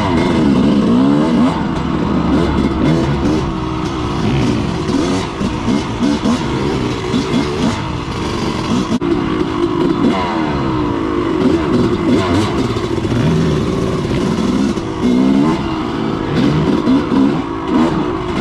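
Dirt bike engine revving up and down while riding a trail, its pitch rising and falling repeatedly as the throttle opens and closes and the gears change.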